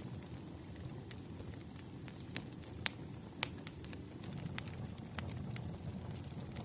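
Wood fire crackling: irregular sharp pops and snaps, a couple louder ones about three seconds in, over a low steady rumble of burning logs.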